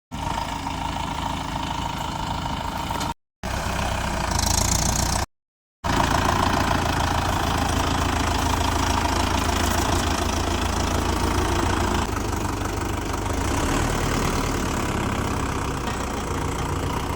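Mahindra tractor's diesel engine running steadily at idle, with a knocking, low-pitched beat. The sound cuts out to silence twice for a moment.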